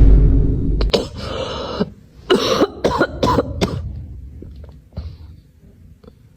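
A loud rumbling blast on the microphone, then a run of about six short, sharp coughing sounds that die away.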